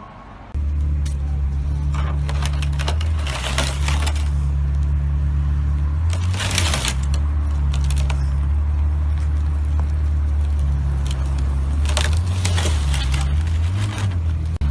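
A car engine running steadily at a low pitch, starting about half a second in, with several bursts of scraping and rattling noise over it.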